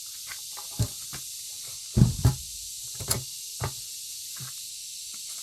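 A handful of irregular knocks and thumps, the loudest pair about two seconds in, over a steady high background hiss.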